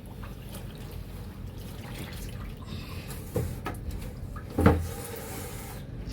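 Water sloshing and splashing as laundry is washed by hand in a basin of soapy water, with a few sudden splashes; the loudest comes near the end.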